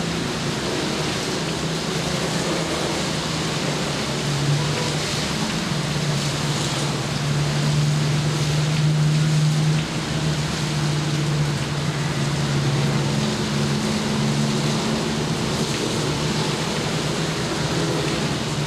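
Steady rain, an even hiss, with a low hum underneath that shifts slightly in pitch and drops out now and then.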